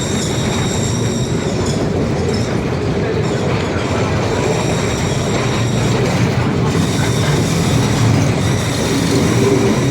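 Lisbon funicular car running on its rails: a steady rumble with a thin high wheel squeal over it, which breaks off for a second or so about two seconds in.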